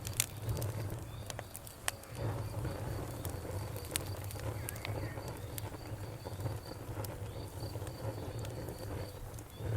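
Campfire crackling with irregular sharp pops over a low steady rumble; the loudest pops come just after the start and about four seconds in. An insect chirps in an even, high pulse behind it.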